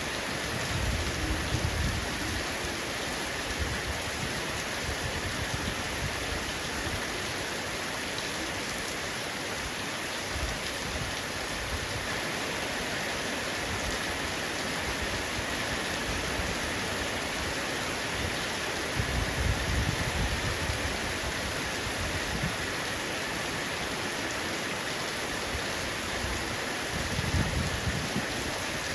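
Heavy rain falling steadily on a roof, with brief low rumbles about a second in, about two-thirds of the way through, and near the end.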